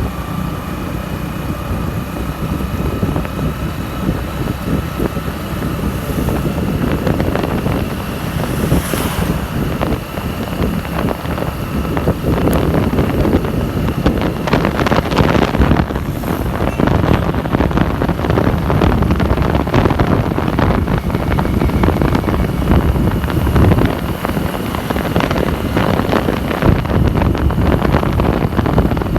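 Wind buffeting the microphone on a moving motorcycle, mixed with engine and road noise. It gets somewhat louder about twelve seconds in.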